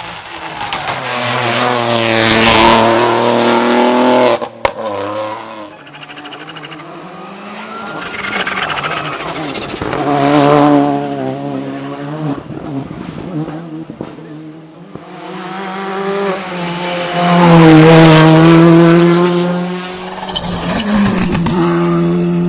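Rally cars driven hard at close range, engines revving high and dropping as they shift and brake. Three loud passes come about eight seconds apart, with a sharp crack a little after the first.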